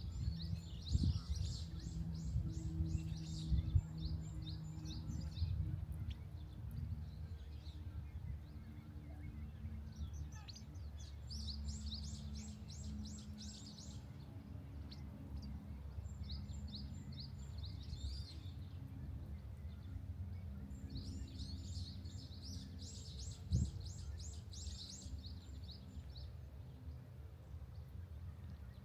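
A small songbird singing in bouts of quick, high twittering notes, four or five phrases of a few seconds each, over a steady low rumble. A single short knock comes about two-thirds of the way through.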